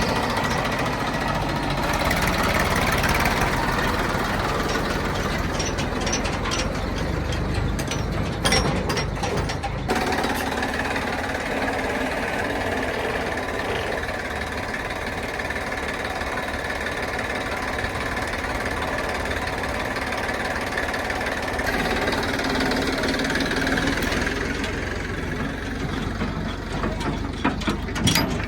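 Heavy diesel engine running steadily, with its load shifting somewhat a few seconds in and again about ten seconds in.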